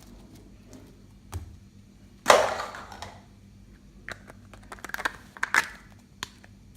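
Slime being handled and mixed by hand: a loud, sticky smack about two seconds in, then a run of small crackles and clicks.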